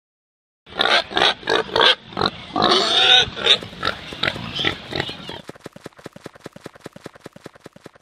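Domestic pig grunting and squealing, loud and irregular, starting just under a second in. About halfway through, the calls give way to a fast, even run of short ticks, about ten a second, that fades toward the end.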